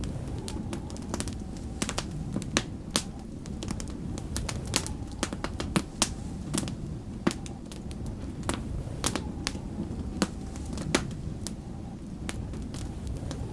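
Wood fire in a fireplace crackling, with irregular sharp pops scattered through, several a second at times, over a low steady rumble.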